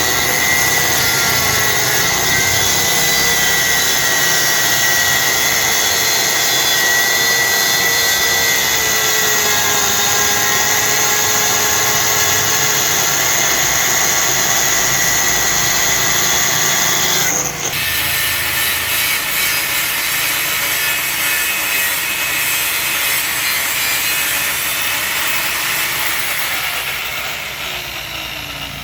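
Power tool running steadily under load, with a steady whine. About two-thirds of the way through it changes abruptly and continues a little quieter, then fades near the end.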